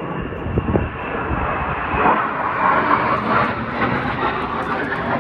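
Jet aircraft flying overhead: a continuous rushing jet noise that grows louder about two seconds in and stays strong.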